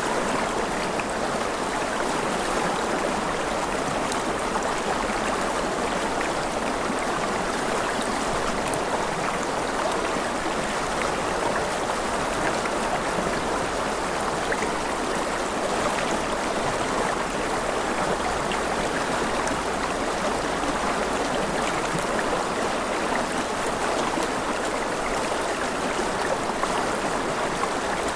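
Flowing stream water, a steady rushing babble with faint scattered drips and splashes and no change throughout.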